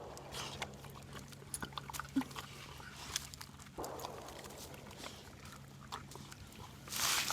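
Irregular crunching and clicking footsteps on a trail over a faint steady hum, with a louder rustling burst near the end.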